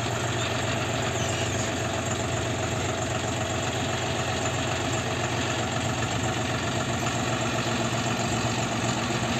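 John Deere 5045D tractor's three-cylinder diesel engine running steadily at an even, unchanging speed.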